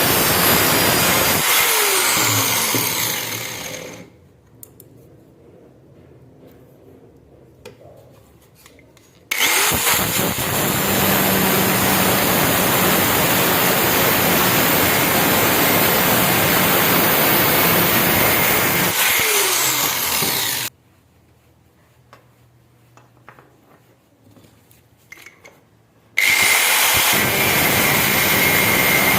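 An electric grinder works metal with a harsh, steady noise. It winds down and goes quiet a few seconds in, starts again abruptly after about five seconds of quiet with only a few faint clicks, and then stops and restarts once more in the same way.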